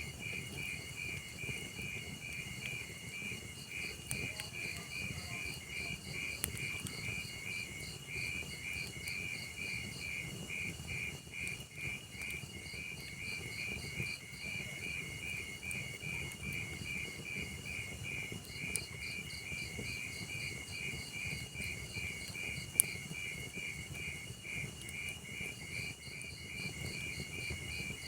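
Crickets chirping in a steady, fast, even rhythm over the low rumble of a log fire, with a few sharp crackles, the loudest a single pop late on.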